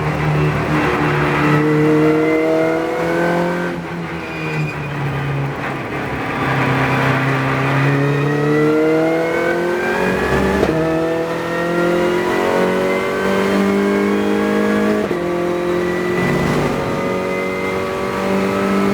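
Renault Clio Cup race car engine heard from onboard, revving up through the gears with its pitch climbing and then dropping back at each upshift, about ten and fifteen seconds in. It eases off briefly about four seconds in before pulling hard again.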